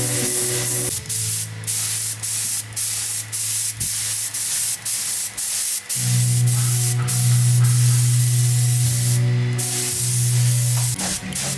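Compressed-air spray hissing in repeated bursts, cut by short breaks about twice a second, as from a spray gun.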